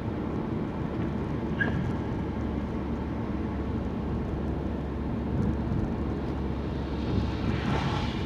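Car interior noise while driving: a steady low engine and tyre rumble, with a swell of rushing noise near the end.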